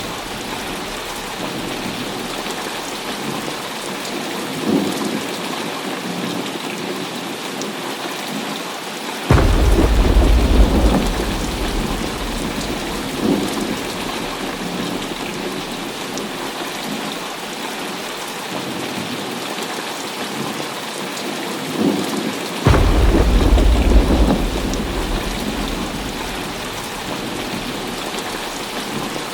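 Heavy rain falling steadily in a thunderstorm. Two sudden cracks of thunder break in, about nine seconds in and again near twenty-three seconds, each rolling on as a deep rumble for a few seconds, with fainter rumbles between.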